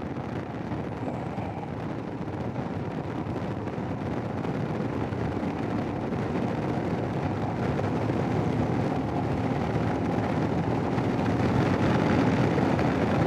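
Royal Enfield Himalayan's single-cylinder engine and wind noise, heard through a helmet intercom microphone while riding. The sound grows steadily louder as the bike gathers speed.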